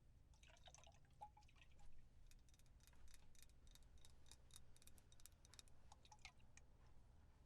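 Faint, quick light tapping: a dense run of small sharp clicks, several a second, lasting about six seconds.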